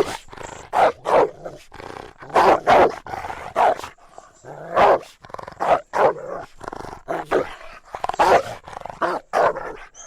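A dog barking over and over, short barks coming in irregular runs of about two a second with brief pauses between runs.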